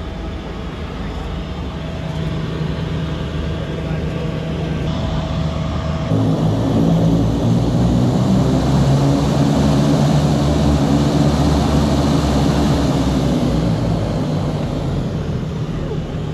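Seaplane's propeller engine droning steadily, heard from inside the cabin, growing louder and rougher about six seconds in and easing off near the end.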